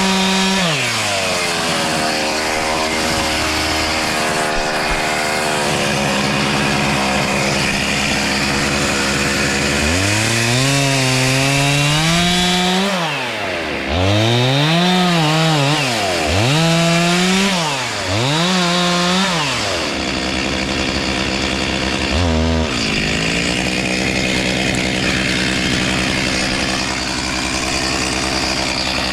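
Chainsaw engine revving up to full speed and dropping back again and again: it falls from high speed at the start, then goes through four quick rev-ups and drop-offs in the middle. After a short blip it is held at a steady high speed.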